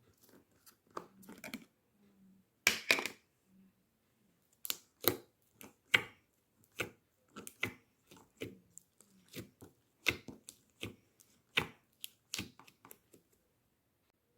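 Hands working a cheese slime: irregular sticky pops, clicks and crackles as it is pressed and stretched, the loudest about three seconds in.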